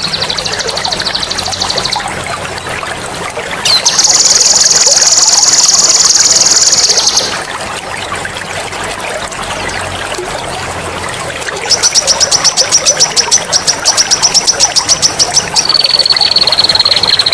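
Songbird singing long, shrill, rolling trills over a steady trickle of running water. There is a fast trill at the start, a loud, very high trill in the middle, and near the end a pulsing trill of about seven notes a second that runs into another high trill.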